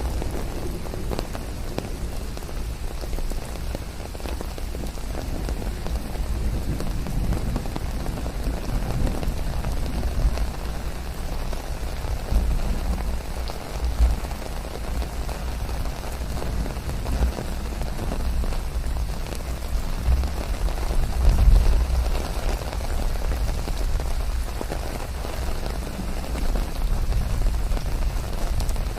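Steady rain falling and pattering on surfaces, with a low rumble underneath that swells now and then.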